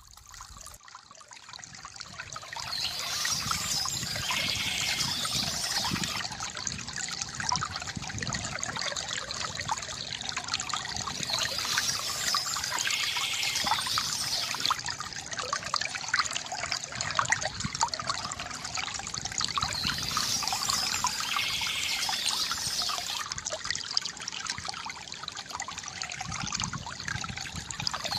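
Water from a bamboo fountain trickling and gurgling steadily, fading in over the first few seconds.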